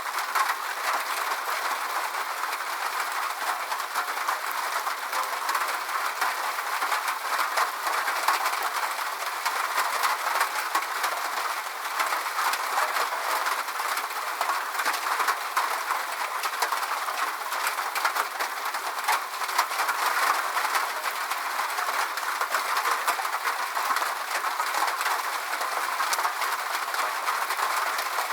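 Steady rain falling, a dense patter of many small drops over an even hiss.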